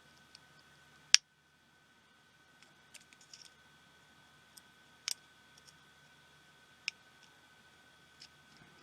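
Sharp clicks and taps of small tools against the parts of a pico projector being taken apart, a handful of separate clicks with the loudest about a second in.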